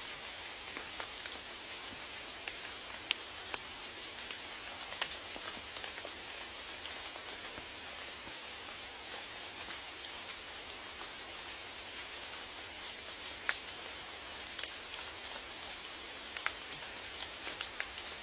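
Steady rain falling as an even hiss, with single drops ticking sharply here and there, a few louder than the rest.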